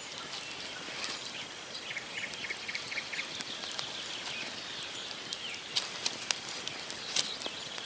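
Wood campfire crackling: many sharp pops and snaps over a steady hiss. Two to three seconds in, a bird gives a quick series of short chirps.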